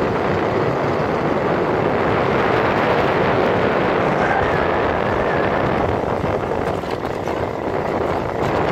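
Motorcycle running steadily on the road, its engine noise mixed with road and wind noise on the microphone.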